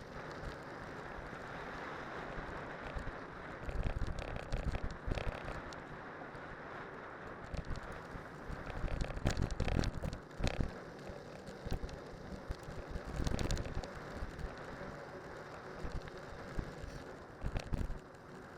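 Cyclocross bike on spiked tyres riding downhill over snow, with wind buffeting the microphone in irregular gusts over a steady rushing noise. Sharp clicks and knocks come from the bike over bumps, several of them around the middle of the ride.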